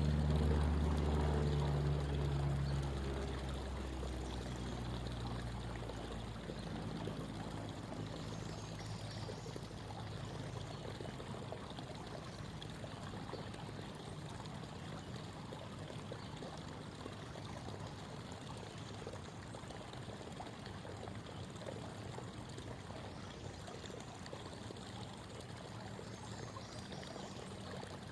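Creek water babbling steadily, with the low hum of a distant engine fading away over the first five or six seconds.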